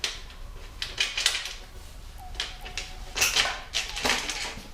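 Irregular clicking and light metallic clinks of hand tools and bolts as an intake manifold part on a Porsche 986 Boxster flat-six is bolted up, with several quick runs of clicks.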